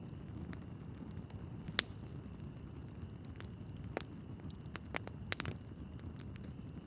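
Wood fire burning in a fireplace: a steady low rumble of the flames with scattered sharp crackles and pops from the burning logs, the loudest pops about two seconds in, at four seconds, and a quick cluster a second later.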